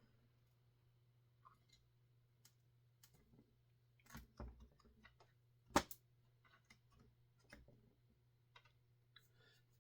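Sparse light clicks and knocks of chainsaw parts and hand tools being handled during disassembly, the loudest about six seconds in, over a faint low hum.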